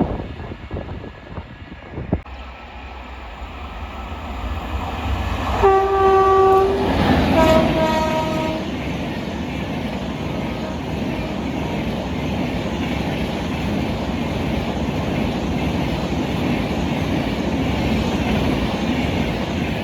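Express train horn sounding two short blasts, the second pitched differently from the first. Then the steady rumble and wheel clatter of the train's coaches running past.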